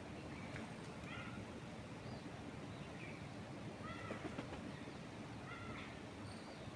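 Birds chirping in short, separate calls about once a second, over a steady background of wind moving through trees.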